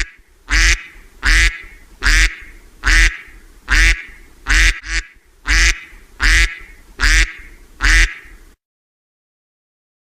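Duck quacking: a regular series of about a dozen loud, harsh quacks, roughly one every three-quarters of a second, stopping about eight and a half seconds in.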